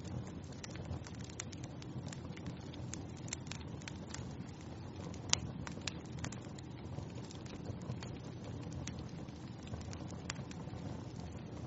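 Wood fire burning in a fireplace: a steady low rush of flames with frequent small crackles and snaps, one louder pop about five seconds in.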